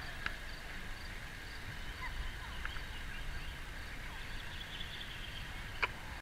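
Birds chirping over steady low outdoor background noise, with two sharp clicks, one about a third of a second in and one near the end.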